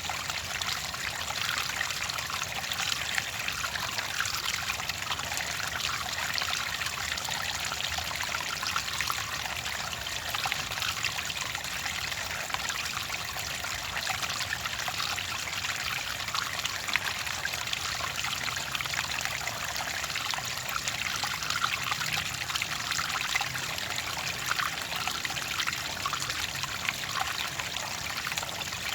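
Clear water trickling and babbling steadily over stones, an even splashing with many small flickering droplet sounds.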